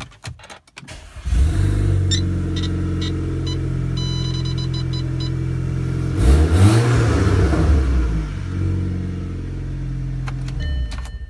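A 2013 Audi A4 (B8.5) engine is started with the emergency key: it cranks and catches about a second in, then idles steadily with a few dashboard chime beeps. About six seconds in it is reved once, rising and falling back to idle, and near the end it is switched off.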